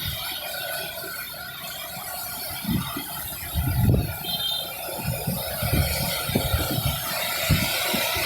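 Steady hiss of rain, with wind buffeting the microphone in irregular low gusts. A brief high squeal sounds about four seconds in.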